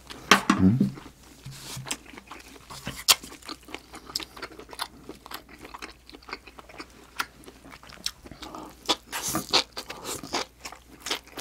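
Close-miked mouth sounds of a person eating: wet chewing clicks and crunches throughout, getting louder and busier near the end as a mouthful of stir-fried seaweed stems goes in.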